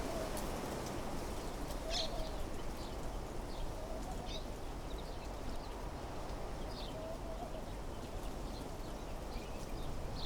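Wind blowing steadily through trees, with birds calling over it: short high chirps every second or two and a few lower, softer calls.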